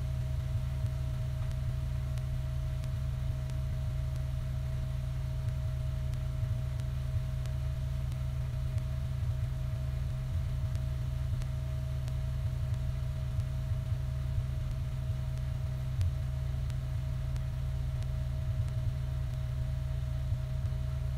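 A steady low machine hum with a faint, steady high whine above it.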